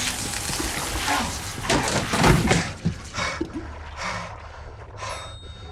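Loud commotion of crashing, scuffling noise with sharp impacts, dying down about two and a half seconds in to a few heavy breaths, about one a second.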